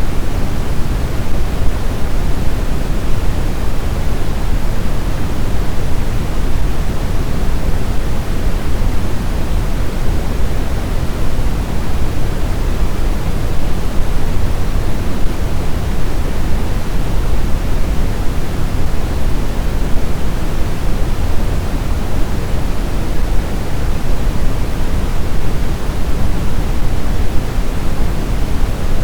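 Blizzard wind as a steady, loud, deep rushing noise, even throughout with no gusts, howls or other sounds standing out.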